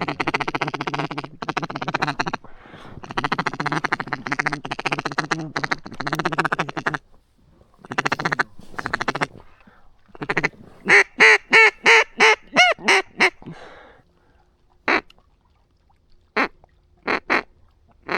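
A hunter's duck call imitating a hen mallard, blown loud and close. A long raspy chattering run comes first, then after a pause a quick string of about eight quacks, then single quacks spaced out near the end.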